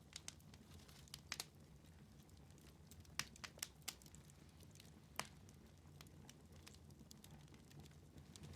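Wood fire in a fireplace crackling quietly, with scattered sharp pops, several in quick succession about three seconds in, over a faint low rumble.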